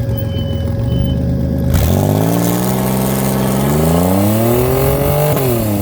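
Turbocharged 1996 Pontiac Transport minivan's V6 accelerating hard under boost. After a steady running note, the engine pitch climbs for about three and a half seconds, then falls sharply near the end.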